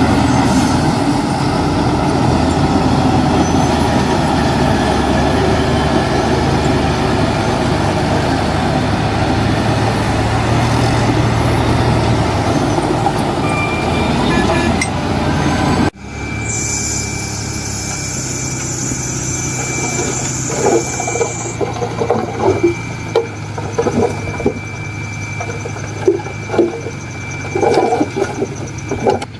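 Heavy diesel construction machinery running under load. About halfway through the sound cuts abruptly to a quieter engine run with a steady high whine and a series of short, sharp noises.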